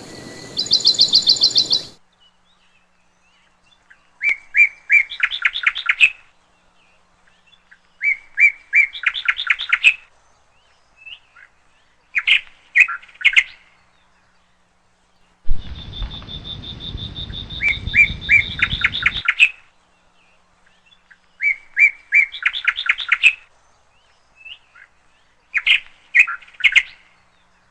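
Parrots chirping in short bursts of rapid notes, a bout roughly every four seconds with silent gaps between. A steady high whistle-like tone runs under one bout midway.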